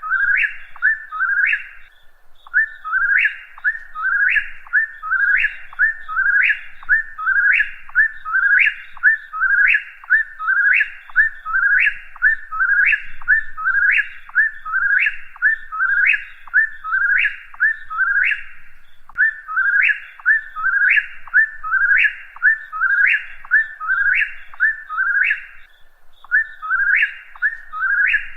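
Whip-poor-will singing its song over and over: a quick whistled "whip-poor-will" phrase about once a second, with a few short breaks.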